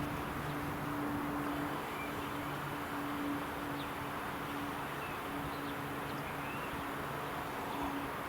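Wind rushing over the microphone of a camera on a moving bicycle, with a steady low hum that drops in and out and a few faint bird chirps.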